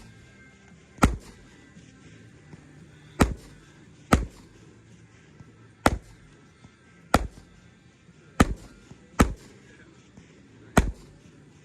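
A 200g consumer firework cake firing shot after shot: eight sharp bangs at uneven gaps of roughly one to one and a half seconds, each dying away quickly.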